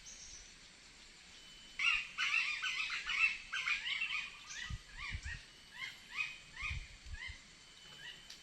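A bird singing, one the uploader calls the 'red bird': a sudden rush of rapid, sharp chirping notes about two seconds in, easing into a slower series of repeated falling notes. A few low thumps sound through the middle.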